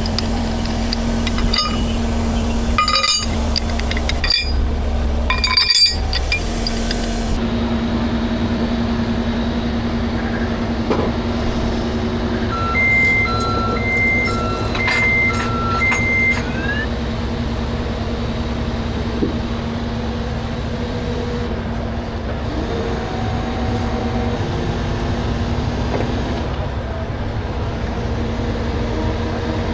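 Heavy truck engine running steadily with a low rumble and constant hum, with a few sharp clicks early on and a short run of alternating high and low electronic beeps about halfway through.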